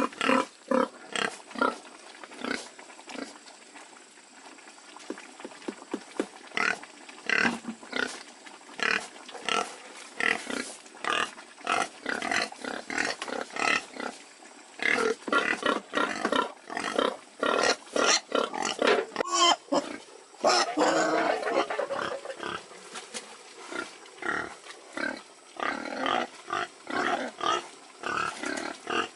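Domestic pigs calling in a dense run of short, irregular grunts and squeals, busiest and loudest about two-thirds of the way through.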